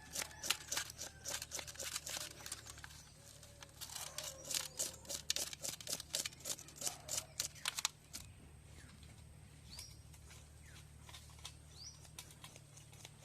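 A fish being scaled by hand: quick, repeated scraping strokes of a blade over the scales, which stop about eight seconds in. A few short bird chirps follow near the end.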